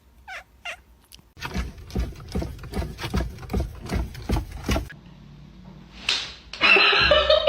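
A cat giving two short meows, then a quick run of knocks or thumps at about three a second for some three seconds, and a loud burst of sound near the end.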